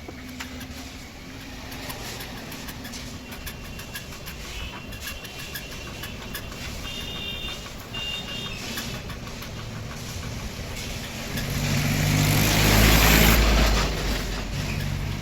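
An engine running, swelling louder for a few seconds from about eleven seconds in, with scattered light clicks earlier.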